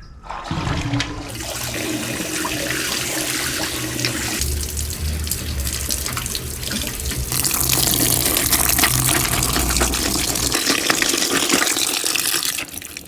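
Water tap running hard into a basin, filling it with clean water to rinse a hand-washed down jacket; the flow stops shortly before the end.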